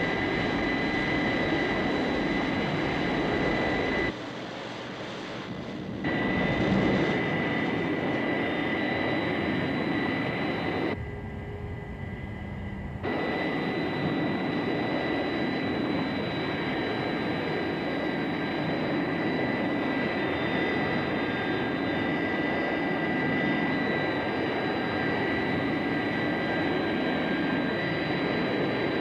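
Jet engines of a hovering Thunderbird craft, a steady roar with a high whine over it. The sound drops away twice for a couple of seconds, once about four seconds in and once around eleven seconds in.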